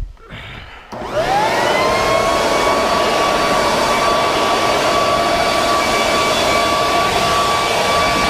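Corded electric leaf blower starting up about a second in, its whine rising quickly and then holding steady over a rush of air as it runs at full speed.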